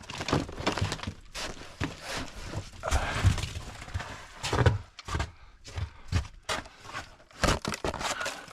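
Footsteps crunching through snow, a quick, uneven series of steps.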